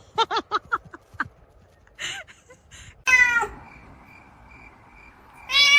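Domestic cat vocalising: a quick run of about six short chirping calls, then two longer meows, one about three seconds in and one near the end.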